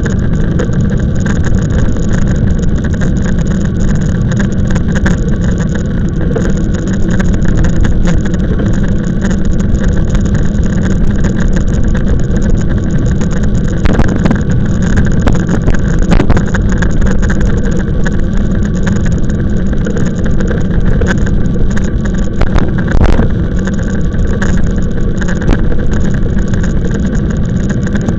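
Steady low rumble of wind buffeting the microphone, mixed with road noise from the moving e-bike, with a few faint knocks.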